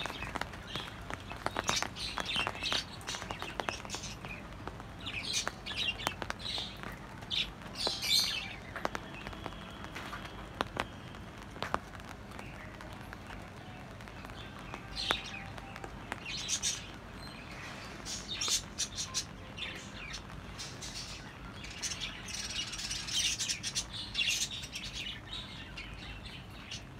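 Birds chirping, with short high calls coming in scattered clusters over a steady low background hiss.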